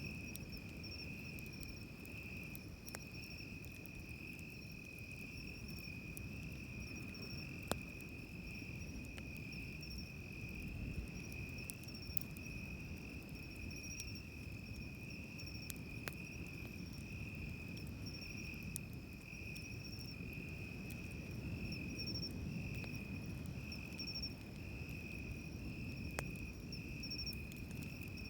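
Insects chirping steadily and without a break in a continuous pulsing chorus, over the low wash of waves on the beach, with a few faint, scattered crackles from a wood campfire.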